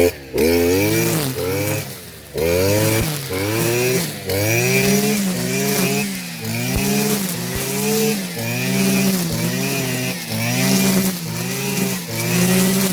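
Small petrol engine of yard-work equipment, its pitch rising and falling over and over, about once every three quarters of a second.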